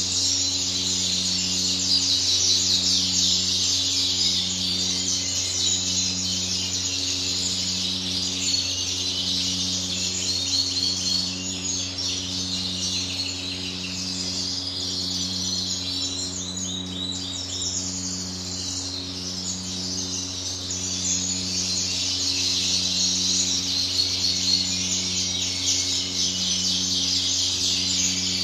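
Several goldfinches chirping and twittering at once in a continuous chatter that thins a little partway through and then builds again.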